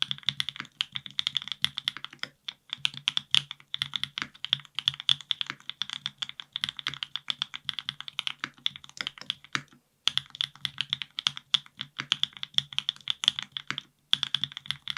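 Typing on a NEO70 custom mechanical keyboard built with lubed Gateron Milkshake linear switches, a carbon plate, O-ring mount and no foam. Quick runs of keystrokes, with short pauses about two seconds in, near ten seconds and near the end.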